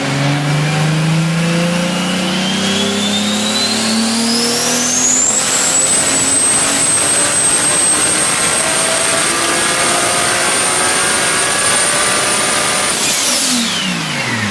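Turbocharged car engine revving up under load while the turbo's whistle climbs steeply for about five seconds. The whistle then holds at a high steady pitch and falls away quickly near the end as the throttle closes.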